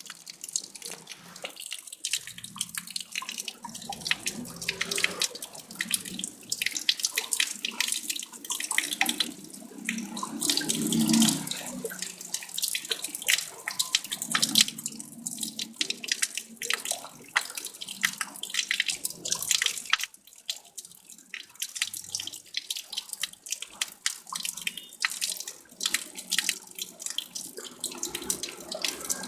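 Water splashing and trickling: a continuous run of small irregular splashes and drips, growing fuller and louder for a couple of seconds around the middle.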